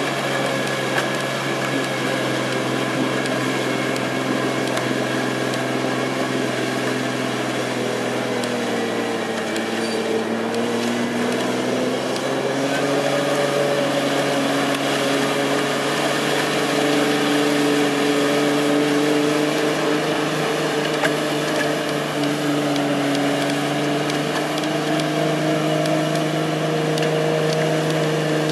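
Jeep Wrangler YJ engine held at high revs while the Jeep is bogged in deep mud, its wheels spinning and throwing mud. The pitch sags about a third of the way in, then climbs back and holds steady.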